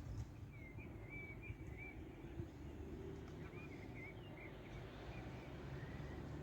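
Faint songbird singing two short warbling phrases, over a steady low outdoor rumble.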